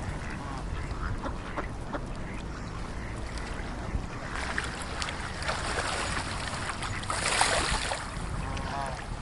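Waterfowl at a spring pool calling with short nasal honks, a few near the start and again near the end, over a steady low rumble. A rushing noise swells from about four seconds in and is loudest just before the end.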